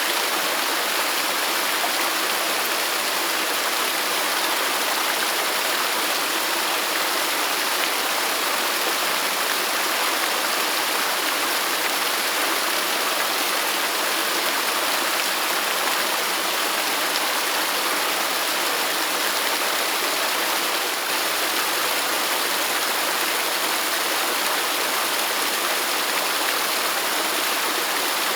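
Waterfall rushing: a steady, even hiss of falling water with no other sound.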